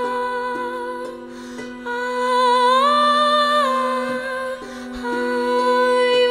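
Woman's voice humming long wordless notes, gliding up about two and a half seconds in and back down near the four-second mark, over a steady low held note with a few lower notes changing underneath.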